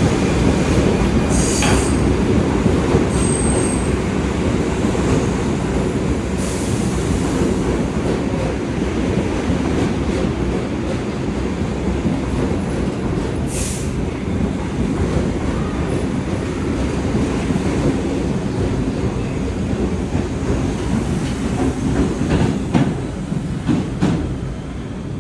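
R62A subway train pulling out of a station: a steady low rumble with wheel clatter on the rails and a few brief high squeals from the wheels.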